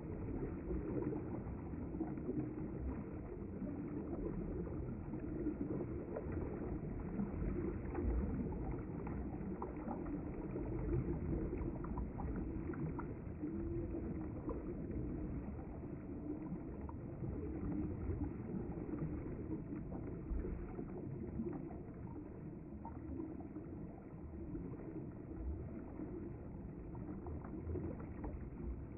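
Steady rush of flowing river water, a low, even noise that swells and eases a little.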